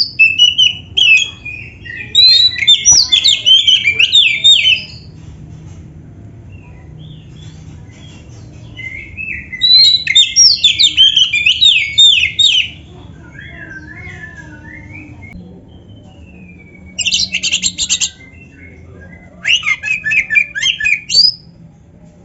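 Oriental magpie-robin (kacer) singing in loud bursts of rapid, varied whistled notes and dense trills, a song filled with canary-style phrases. The bursts come at the start, around two to five seconds in, around ten seconds in, and twice near the end, with quieter pauses and a low steady background hum between them.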